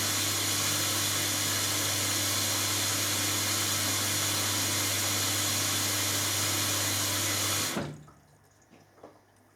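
Hoover Dynamic Next washing machine taking in water for its last rinse: a steady rush of water with a low hum, which cuts off suddenly near the end as the inlet shuts, followed by a faint click.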